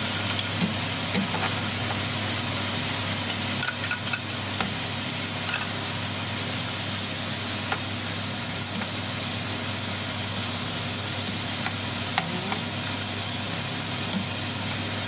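Pork cubes, garlic and chopped onion sizzling steadily in hot oil in a frying pan, with a few light clicks and scrapes of a metal spatula stirring them.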